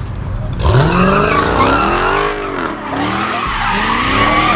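A car doing a burnout. The engine revs up sharply about half a second in, then its revs rise and fall again and again while the tyres squeal.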